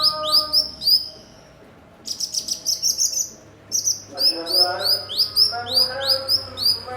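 Cucak cungkok songbird singing: quick series of high upward-sweeping chirps, about five a second, broken by a short burst of dry buzzy notes about two seconds in. In the second half more chirps come with lower warbling notes underneath.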